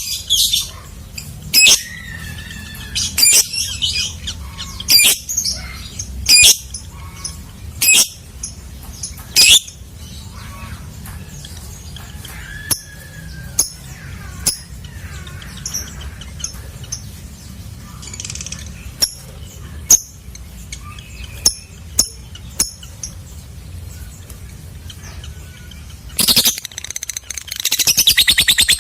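Lovebird calling: loud, sharp, shrill chirps about every second and a half, then softer scattered chirps. Near the end it breaks into a fast, continuous chattering trill, the long 'ngekek' song.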